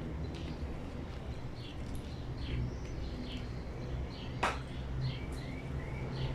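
Small birds chirping repeatedly, with short high chirps throughout and a few quick arched calls near the end, over a steady low hum. A single sharp knock about four and a half seconds in.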